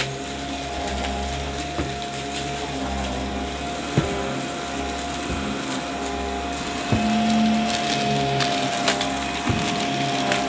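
Upright vacuum cleaner running with a steady motor whine, its brushroll pulling in crunchy debris with a few sharp cracks.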